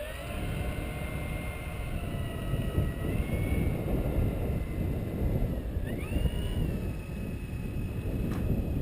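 Electric motors and propellers of a HobbyKing 1875mm B-17 RC model whining, rising in pitch as the throttle is advanced, dipping briefly and climbing higher again about six seconds in. Wind rumbles on the microphone underneath.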